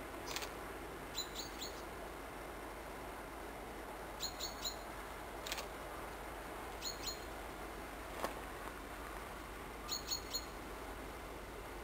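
A small bird chirping in quick runs of about three short, high notes, repeated every couple of seconds, over a steady faint outdoor hiss. A few single sharp ticks stand out, the loudest about eight seconds in.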